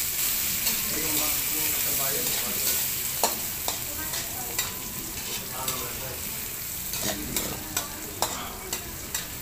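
Garlic, onion and chopped tomato sautéing in hot oil in a steel wok: a steady sizzle, with a metal spatula stirring and scraping, clicking irregularly against the pan.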